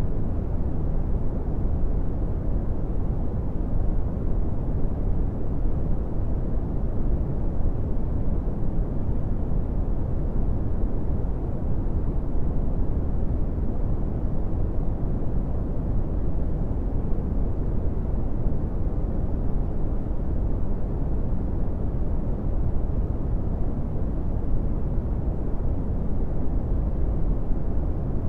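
Brown noise: a steady, unchanging low rumbling hiss, with most of its weight in the bass and little above the midrange.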